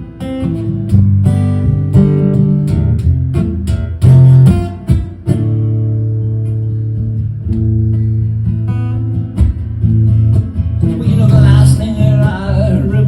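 Acoustic guitar strumming chords through an instrumental break in a live song. A wavering melody line comes in over the guitar near the end.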